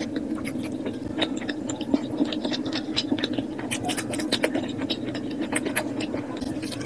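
Eating sounds sped up to double speed: a dense run of quick wet clicks and smacks of chewing curry and rice.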